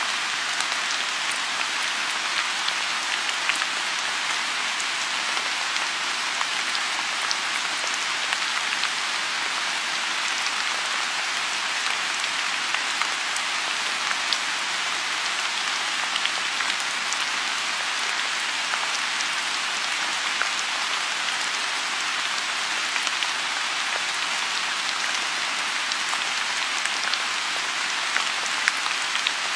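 Steady rain falling on a lotus pond: an even hiss of rain with many small drop ticks scattered through it.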